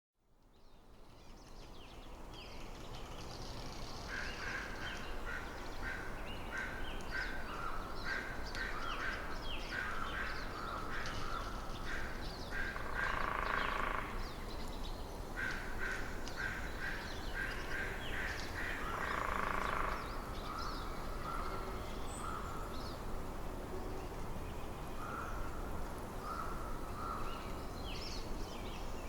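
A flock of birds calling, with many short, harsh calls overlapping and a few louder, longer calls now and then, over a steady low wind rumble. The sound fades in from a brief silence at the start.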